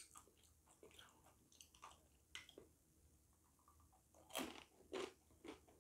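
Faint chewing of crunchy fried chicken skin: scattered small crunches, with a few louder ones about four seconds in.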